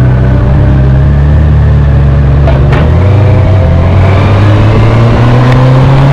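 Honda CB1000R's inline-four engine pulling under way, heard on the moving motorcycle. Its pitch drops about three seconds in at an upshift, then climbs steadily as the bike accelerates through the next gear.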